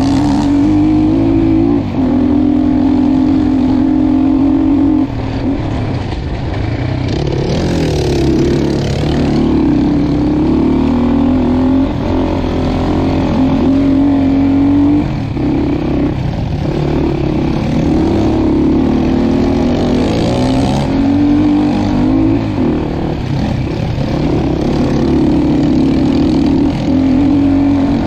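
Dirt bike engine running hard on a technical off-road trail, its revs rising and falling constantly with the throttle, with a few brief drops.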